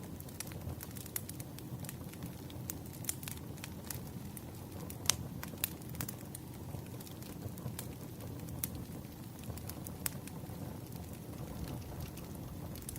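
Wood fire crackling: a steady low rumble of burning logs with irregular sharp pops and snaps, the loudest about five seconds in.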